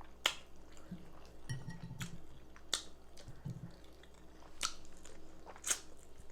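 Close-miked chewing of a mouthful of baked chicken and rice with gravy, with sharp wet mouth clicks and lip smacks every second or so.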